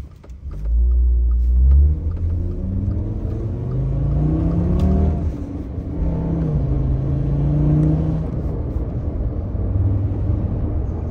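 The 2011 Volkswagen Golf wagon's five-cylinder engine accelerating through the manual gears. A deep low rumble as it pulls away gives way to a rising engine note, which drops at a gear change about five seconds in and rises again before settling.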